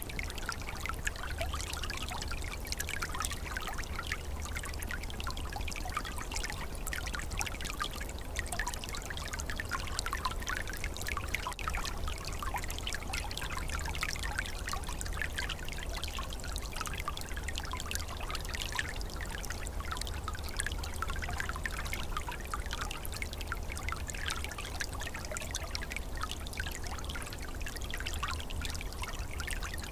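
A small, calm forest stream flowing and trickling steadily, with many small bubbling splashes over a continuous rush of water.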